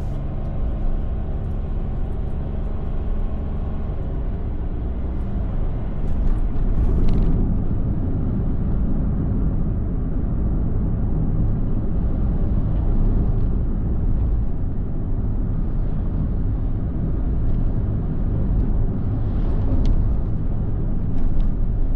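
Car driving along, a steady low rumble of road and engine noise heard from inside the cabin, with a few light clicks and knocks.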